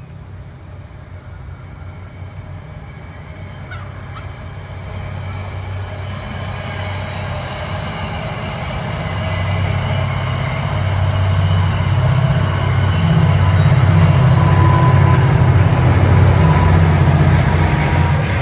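A train approaching, growing steadily louder with a deep engine rumble and fainter higher tones above it.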